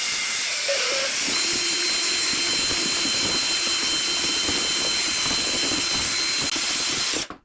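Electric drill with a mixing paddle running steadily, stirring joint compound in a bucket, with a faint high motor whine; it cuts off suddenly near the end.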